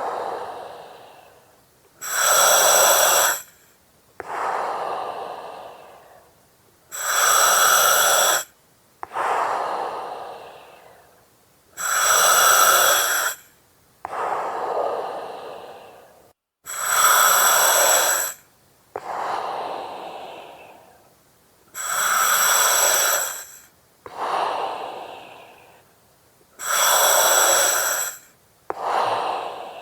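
Breathing through an oxygen mask with regulator hiss, in a slow steady rhythm of about one breath every five seconds. Each cycle is a sharp hiss lasting about a second and a half, then a softer breath that fades out.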